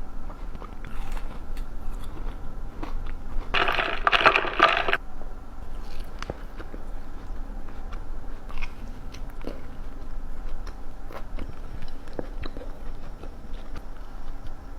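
Close-miked eating: one loud, crunchy bite lasting about a second and a half, a few seconds in, followed by chewing with scattered small crunches and mouth clicks.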